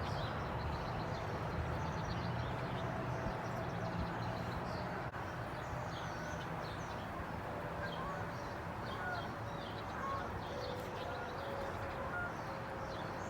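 Birds chirping and calling, many short high chirps and a few brief whistled notes scattered through, over a steady low hum.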